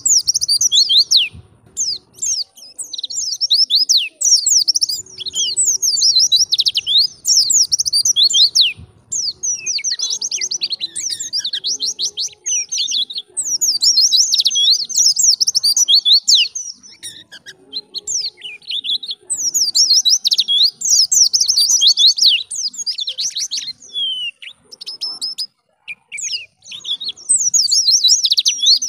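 White-eye (pleci) singing in full song: long runs of fast, high-pitched twittering chirps, broken by several short pauses.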